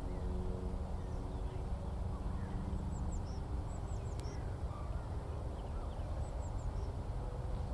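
Skylarks singing in the distance: faint, high, rapid twittering phrases over a steady low engine drone with a few held pitches.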